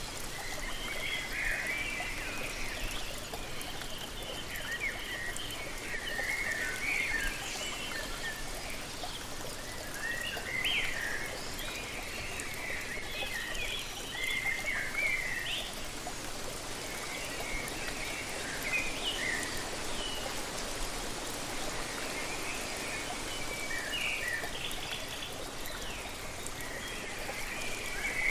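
Steady rush of falling water from a waterfall, with songbirds chirping in short, repeated bursts over it.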